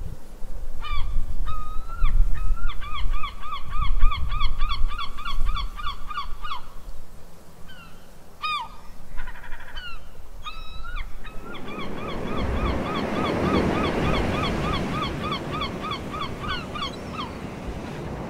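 A bird calling in two long series of repeated honking notes, about three to four a second, each note rising and falling in pitch. Low wind rumble is under the first series, and surf hiss rises behind the second from about halfway through.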